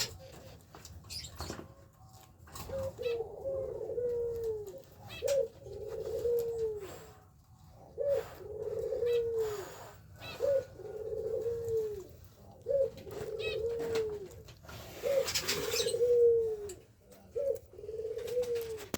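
A dove cooing over and over in a low voice, about seven phrases each made of a short note and then a longer, arching one, roughly every two seconds.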